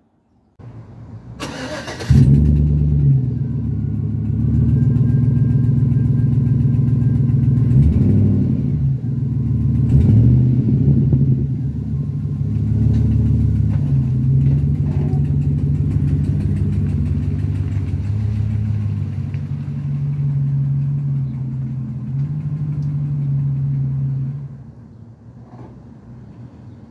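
Small gas engine of a Craftsman garden tractor started, catching about two seconds in, then running with the throttle changing a few times. It stops or drops away sharply near the end.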